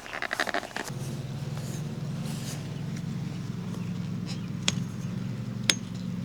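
A small motor switches on about a second in and hums steadily, with a couple of sharp clicks near the end.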